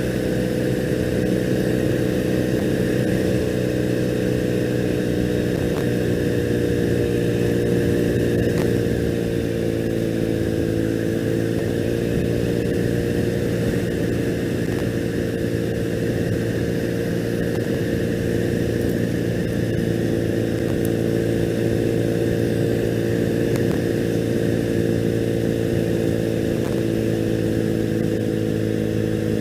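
2001 Triumph Bonneville's air-cooled parallel-twin engine running at a steady cruise, its pitch holding nearly level with only a slight dip and rise midway.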